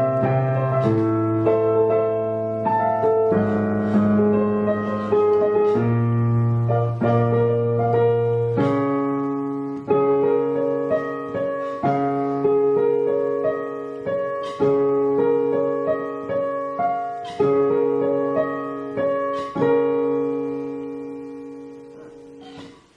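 Digital piano played slowly: a melody of single notes over held chords, each note struck and left to ring, with the last chord dying away near the end.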